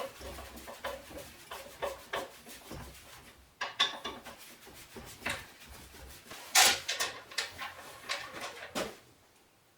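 Irregular clicks, knocks and scraping of hard parts being handled and rubbed together, the loudest knock about six and a half seconds in.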